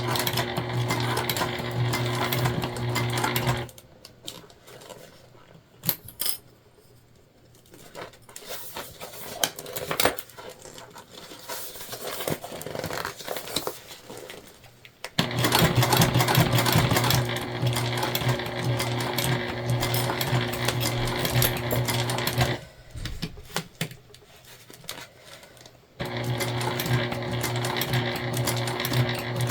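Sewing machine stitching through jelly vinyl in three runs, stopping twice for several seconds in between. Small clicks and handling knocks fall in the pauses as the vinyl is repositioned.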